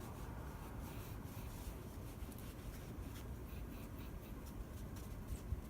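Faint rubbing and small scratchy ticks of hands handling computer parts, with a soft bump near the end.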